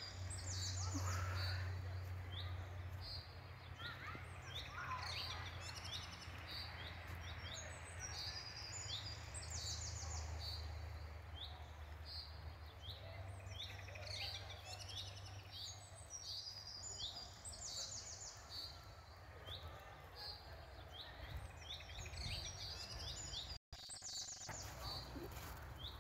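Small birds chirping, many short high calls in quick runs one after another, over a steady low rumble. The sound drops out for an instant near the end.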